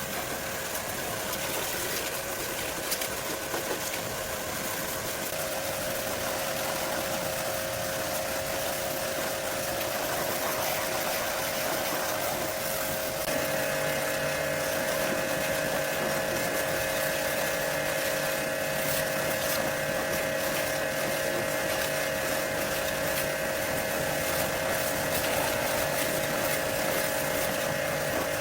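A motor running steadily with an even hum. About thirteen seconds in, extra higher and lower tones join and it grows slightly louder, as if the load or speed changes.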